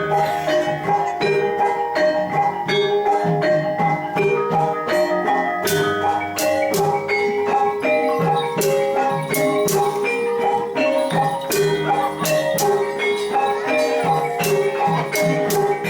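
Gamelan ensemble playing jathilan accompaniment in the Semarangan style: metal mallet instruments ringing a quick run of notes over percussive strokes that grow more frequent about six seconds in.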